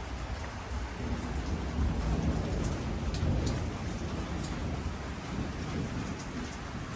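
Steady rain falling and pattering on surfaces, with individual drops ticking sharply, over a low rumble of thunder that swells in the first half and eases off.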